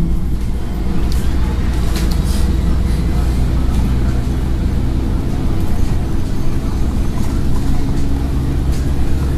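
Scania N113 bus's diesel engine running steadily under way, heard from inside the bus, with a few short rattles from the body.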